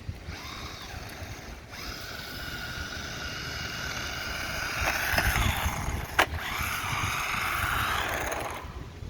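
Brushed electric motor of a 1/16-scale SG-1603 RC drift truck whining as it is driven, its pitch rising and falling with the throttle, with a sharp click about six seconds in. Wind rumbles on the microphone underneath.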